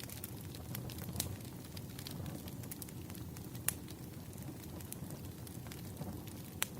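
Wood fire burning, with a steady low rumble and irregular crackles and pops; two sharper pops stand out, one about halfway through and one near the end.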